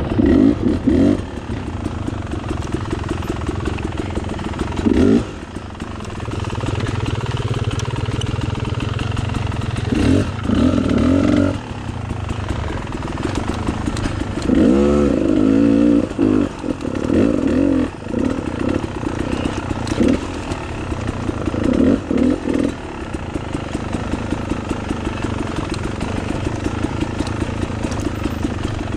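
Dirt bike engine running on a trail ride, with repeated short bursts of throttle where the engine revs up and drops back, about seven times over the stretch.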